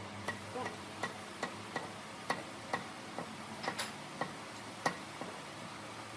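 A series of light, sharp clicks or taps at an uneven pace, two or three a second, over a faint steady hum; they stop about a second before the end.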